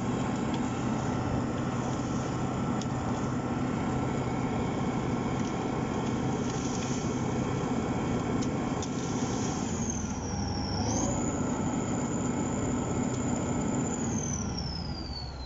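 Heavy wheeled tractor's diesel engine working under load, a steady low drone. About ten seconds in a high whine appears, dips, jumps back up and holds, then falls away in the last second or so as the engine eases off.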